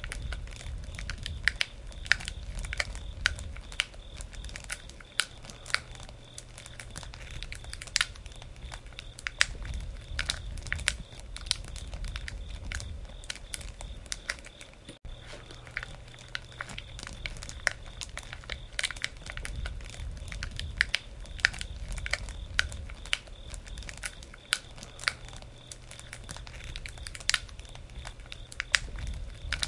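Wood campfire crackling: frequent, irregular sharp pops and snaps over a low, steady rumble of the burning fire.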